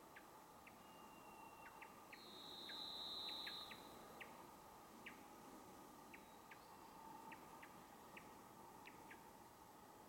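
Forest birds calling faintly: a single long, steady, high whistled note lasting about a second and a half, a few seconds in, is the loudest sound. Short sharp chip-like calls repeat roughly every half second throughout.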